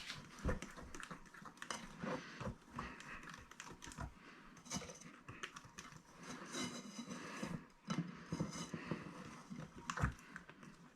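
Egg whites and icing sugar being beaten by hand in a bowl: a run of quick, irregular clicks and taps from the utensil against the bowl as the mixture thickens.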